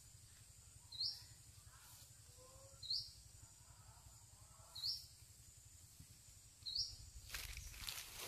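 A bird repeats a short, high, hooked call four times, about every two seconds, over faint, lower warbling from other birds. Near the end a rustling noise starts up.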